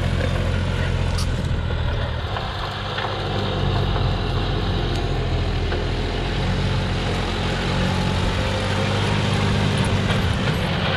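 John Deere 5065E tractor's diesel engine running steadily, its note shifting about two seconds in and then holding steady again.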